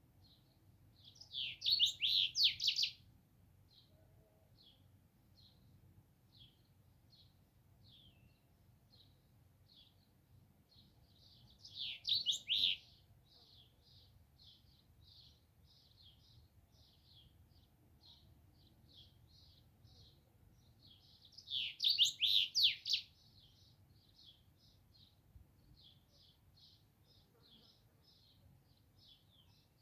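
A small songbird chirping: soft, short, high chirps repeated about twice a second, broken three times by a loud burst of rapid chirps lasting a second or two, about ten seconds apart.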